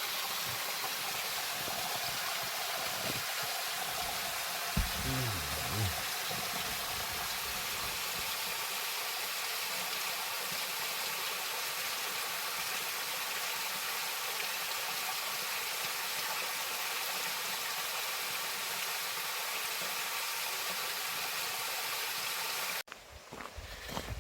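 A waterfall and mountain stream rushing, a steady even noise that cuts off suddenly near the end.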